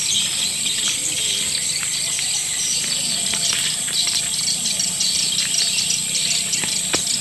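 Recorded edible-nest swiftlet calls: a dense, continuous chorus of rapid high twittering chirps over a steady high hiss. It is a swiftlet lure call of the 'akau sedot senja' type, played to draw swiftlets into a nesting house.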